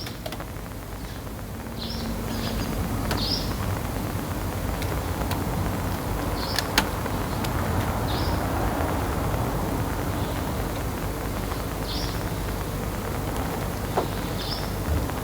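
A sparrow giving single short chirps, irregularly spaced a second or a few seconds apart, over a steady background rumble, with a couple of sharp clicks.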